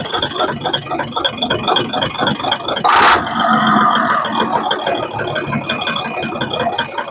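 Isuzu 6WF1 six-cylinder diesel engine, converted to a manual injection pump, running at idle with a fast, even rattle. A short, loud burst of hiss comes about three seconds in.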